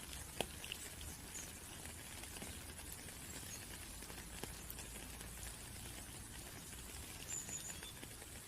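Steady rain falling, an even patter with scattered single drop ticks.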